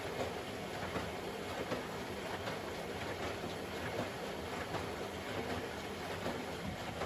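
Privileg Sensation 952 S top-loading washing machine running: a steady mechanical noise with irregular light clicks and knocks.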